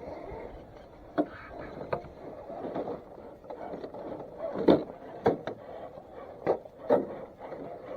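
Tiny RC crawler trucks clattering over rocks and obstacles: a series of irregular sharp knocks and clacks, the loudest a little past halfway through.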